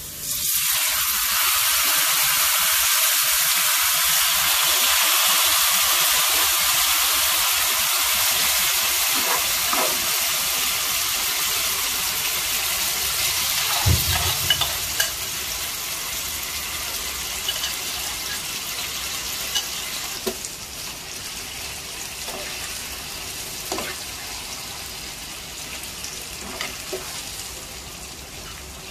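Loud sizzle of wet ground taro leaves hitting hot oil in a frying pan, starting suddenly and slowly dying down as they are stirred. A thump comes about halfway through, and a few spatula clicks follow near the end.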